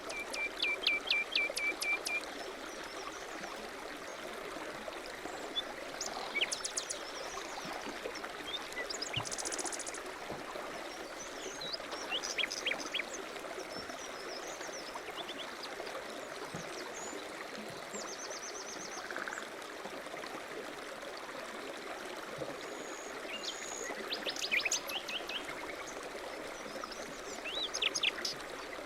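Several songbirds chirping and trilling in short phrases over a steady rush of running water, like a stream.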